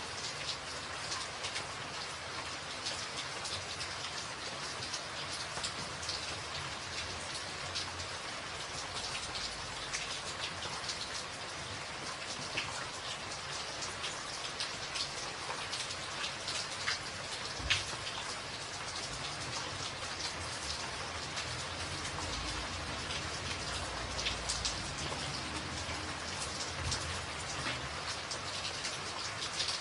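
Steady rain on a tin roof: a dense hiss of falling drops with sharper single drop ticks scattered through it, one a little louder about two-thirds of the way through.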